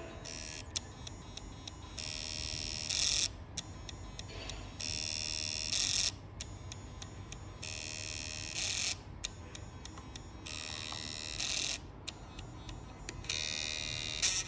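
Failing Western Digital hard drive caught in a repeating cycle: fine rapid ticking, then a buzzing whine about a second long that ends in a louder burst. The cycle recurs roughly every three seconds, five times over. It is the clicking of a drive that the computer cannot boot from, which an attempted fix did not cure.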